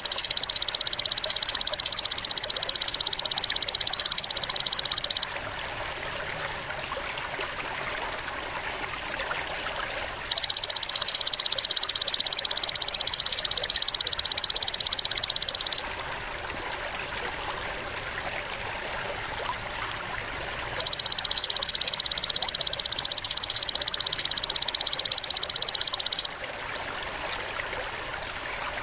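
Three long, high buzzing insect trills, each about five seconds with a rapid even pulse, separated by pauses of about five seconds. Water trickles steadily underneath.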